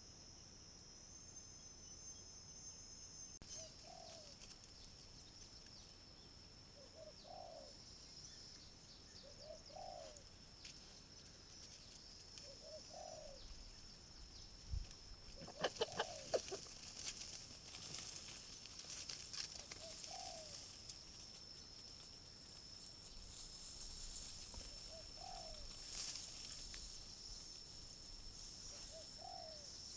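A bird calling a single short, rising-and-falling note about every three seconds over a steady high-pitched drone. Halfway through comes a quick run of sharp clicks, the loudest sound.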